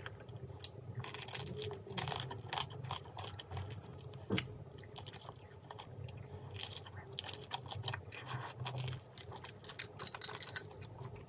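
Close-miked mouth sounds of chewing tough grilled whole daechang (beef large intestine): wet smacking and many small clicks in an uneven run. A sharp click stands out near the end.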